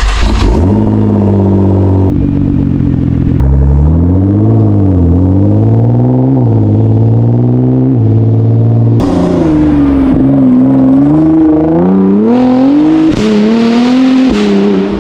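Stage 5 Nissan GT-R's twin-turbo V6 running at a high cold-start idle just after firing up, its pitch wavering up and down. About nine seconds in the sound turns harsher and the pitch climbs in steps.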